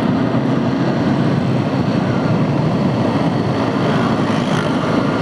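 Motorcycle engine running steadily at low revs in slow, jammed city traffic, a constant drone with the noise of surrounding vehicles, picked up by a camera mounted on the bike.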